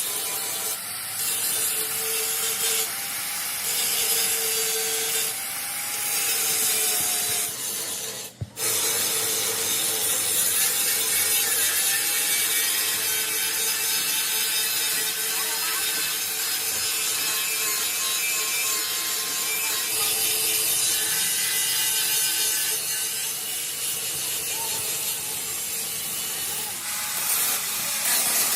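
Steady rasping, scraping tool noise with a faint steady whine running through it, broken by a brief gap about eight seconds in.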